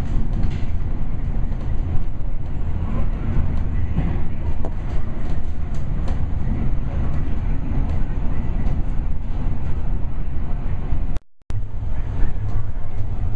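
Steady rumble of a MARTA rapid-transit railcar running along the track, heard from inside the car, with scattered faint clicks. The sound breaks off for a moment about eleven seconds in and resumes.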